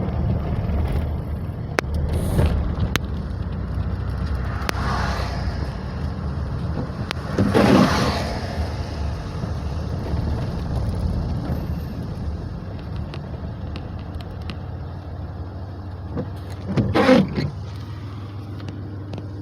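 Steady low road and engine rumble of a car being driven, with a couple of louder swells about eight seconds in and again near the end.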